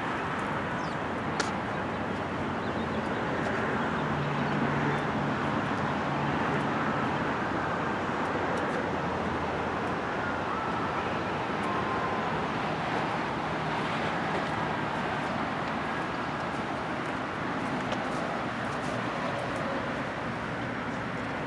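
Steady outdoor background noise of road traffic, with a few faint clicks.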